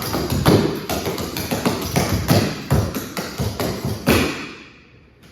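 Clogging shoe taps striking the floor in quick, rhythmic steps over music, ending with a loud hit about four seconds in, after which the sound dies away.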